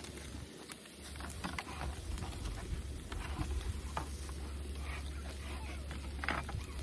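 Beef sizzling on a camp grill, with scattered light clicks of utensils, over a steady low hum that begins about a second in.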